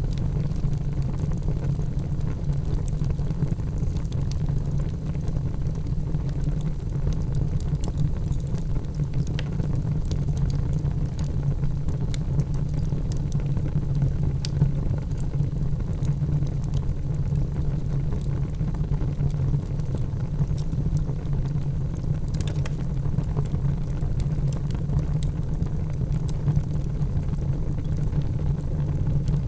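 Wood fire crackling in a fireplace: a steady low rumble of the burning fire with scattered small sharp pops and crackles throughout.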